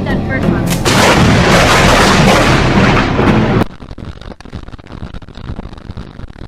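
Thunder from a close lightning strike: a loud, sudden crack about a second in that runs on for a few seconds, then cuts off sharply, leaving quieter crackling noise.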